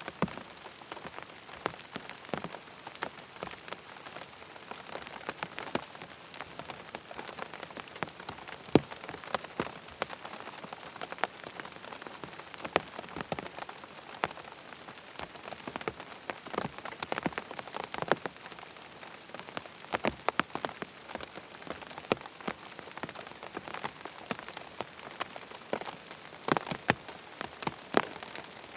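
Steady rain falling on a surface, with frequent irregular sharp drop ticks over an even hiss.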